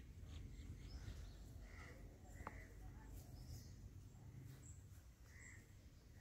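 Near silence with a faint low rumble and a few faint, short bird chirps, about three spread through.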